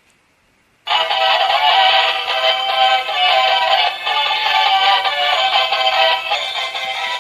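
Electronic tune with synthetic singing from a battery-operated mechanical dinosaur toy's built-in sound chip, playing through its small speaker. It cuts in suddenly about a second in and plays loudly and continuously, thin with no bass.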